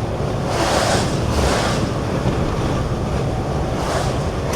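Moving truck heard from inside the cab: a steady low road and engine rumble, with swells of hissing wind gusting against the cab in strong wind and sleet.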